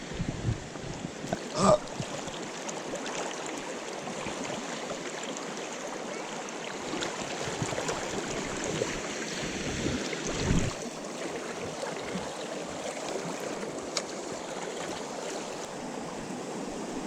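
Steady rushing of flowing stream water, with two brief low thumps: one about two seconds in, one about ten seconds in.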